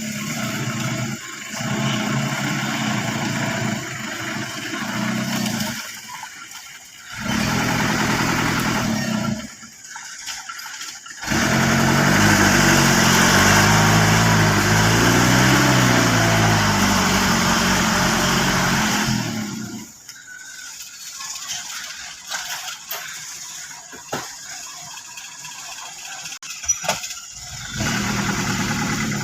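Old dump truck's engine running, revved hard for several seconds in the middle with its pitch rising and falling, then dropping back to a quieter run with a few sharp clicks before picking up again near the end.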